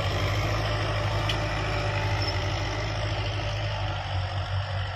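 Diggitrac 4x4 mini tractor engine running steadily with an even, low hum.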